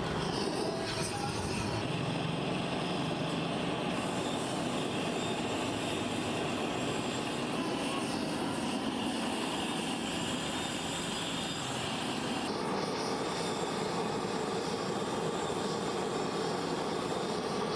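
Steady noise of machinery running, its sound shifting slightly about twelve seconds in.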